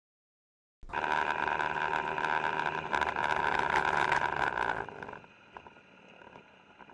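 Road vehicle noise with many sharp clicks and rattles. It starts suddenly about a second in and drops to a faint steady hum about four seconds later.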